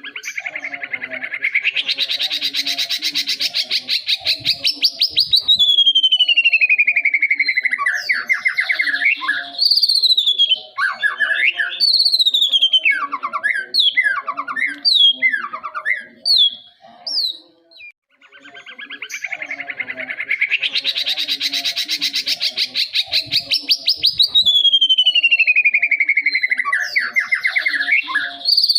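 Young white-rumped shama (murai batu) singing: a fast buzzy trill rising in pitch, a long falling whistle, then a string of short downslurred whistled notes. The same song phrase starts over about two-thirds of the way through.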